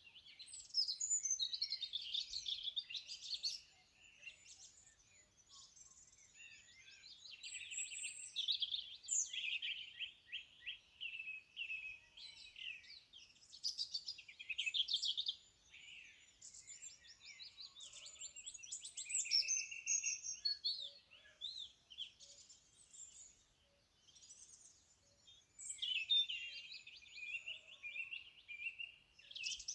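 Several songbirds singing and chirping at once, in bursts of rapid trills and chirps with brief quieter gaps.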